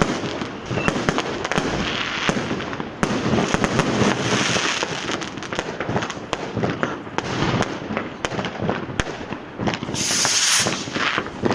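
Street fireworks and firecrackers going off without pause: many sharp bangs and crackles overlapping, with a loud hissing burst about ten seconds in.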